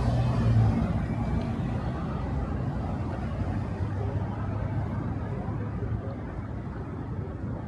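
Low, steady rumble of motor traffic on a city street, slowly fading.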